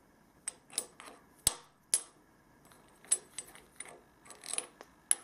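Metal depth-stop spacers being handled and set on a milling machine's quill depth stop: a series of irregular light metal clicks and clinks, some with a short high ring.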